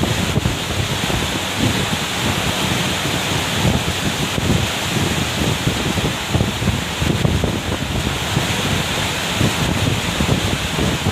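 Strong gusty wind buffeting the microphone in a rumbling, uneven way over a steady rush of rough sea.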